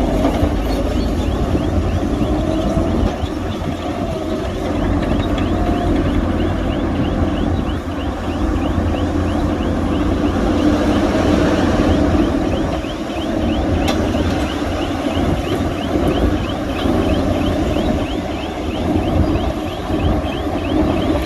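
Heavy earthmoving machinery running steadily with a deep engine rumble. From about halfway on, a fast string of short high squeaks rides over it.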